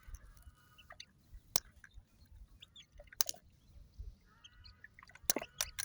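Sharp cracks and clicks of a snail shell being broken by hand, four of them spread over several seconds, two close together near the end. Faint short bird chirps sound between the cracks.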